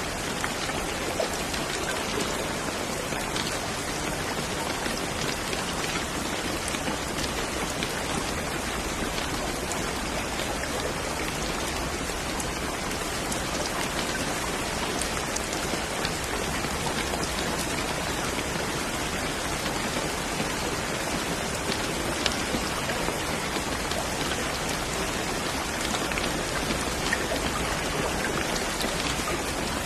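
Steady rain, a dense even hiss of falling drops with many small individual drops ticking on a surface.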